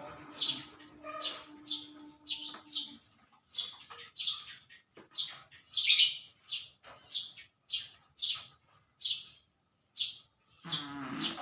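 A small bird chirping over and over, short high chirps about twice a second.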